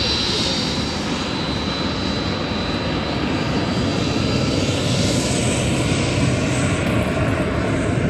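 Airplane engines of a formation team in flight, a loud, steady drone.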